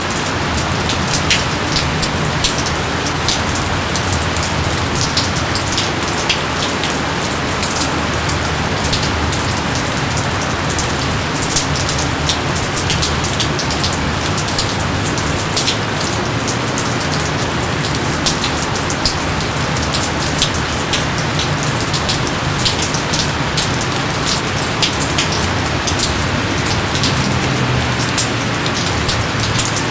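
Steady heavy rain falling in a jungle: an even hiss with frequent sharp drop hits.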